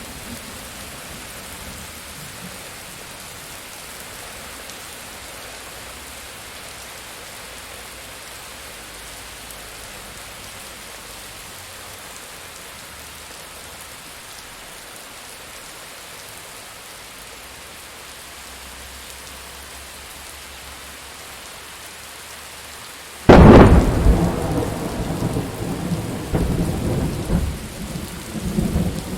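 Steady rain falling, then about three-quarters of the way through a sudden loud thunderclap that breaks into rolling rumbles.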